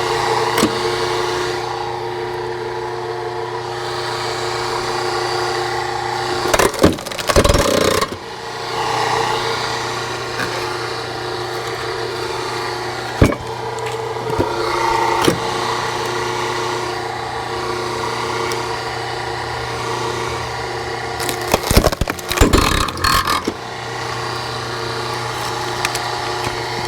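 Engine-driven log splitter running steadily. Wood cracks sharply twice as logs are split, about seven seconds in and again about twenty-two seconds in.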